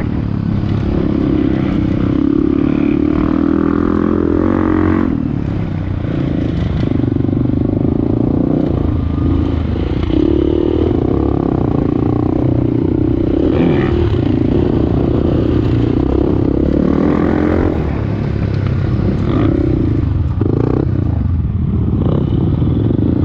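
Off-road motorcycle engine running under way, its pitch rising and falling with the throttle, with some clattering.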